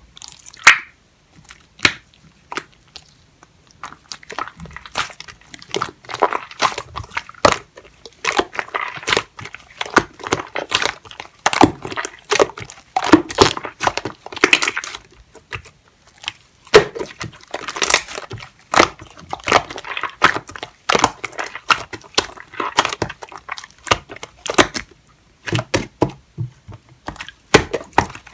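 Hands squishing, stretching and folding clear pink slime mixed with shaving foam, making irregular sharp sticky clicks and squelches.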